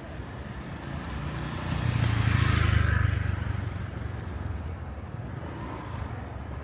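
A motor vehicle driving past close by: its engine and tyre noise swell to the loudest point about two and a half seconds in and fade over the next second or so, over a steady street hum.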